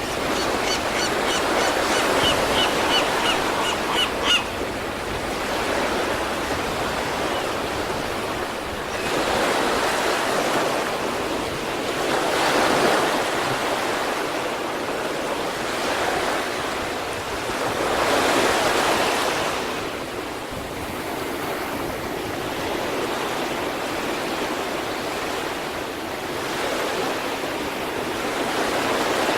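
East Sea waves breaking and washing on the shore, the surf swelling and easing every few seconds. In the first four seconds or so a bird gives a run of rapid, repeated calls.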